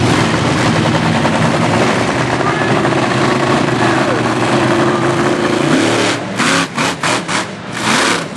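A vehicle engine running steadily, joined about six seconds in by a run of loud, irregular bursts.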